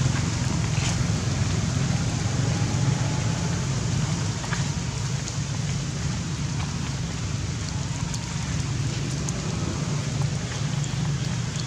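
Steady rain falling on wet ground and puddles, with scattered drip clicks, over a steady low rumble.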